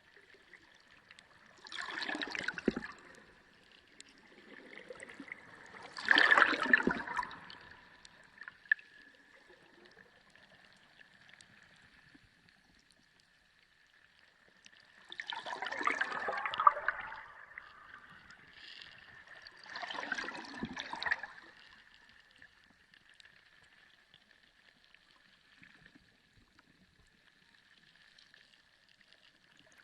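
Sea water heard underwater, gurgling and sloshing in four separate surges of about a second each, with a faint steady high tone underneath.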